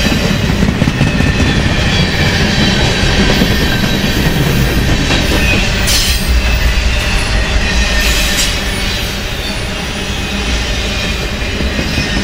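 Freight train of autorack cars rolling past close by: a steady rumble of steel wheels on the rails, with thin wheel squeal and two brief high-pitched hisses about six and eight seconds in.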